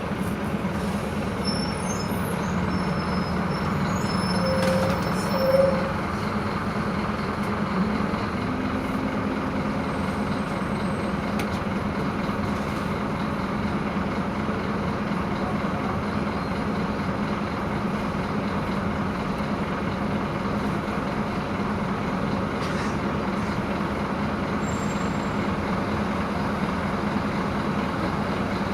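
Scania K230 IB city bus's diesel engine running steadily. Two short tones sound about five seconds in.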